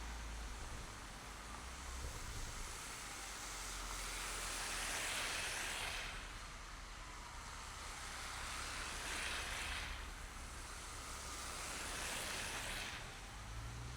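Driving in city traffic: a steady low engine hum with the hiss of tyres on the road swelling and fading three times as vehicles pass.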